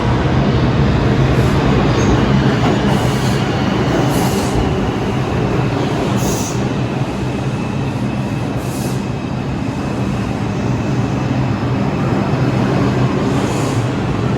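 New York City subway train running on the Broadway–Seventh Avenue line: a steady rumble of wheels and motors with a low hum, broken by several brief high-pitched bursts of noise.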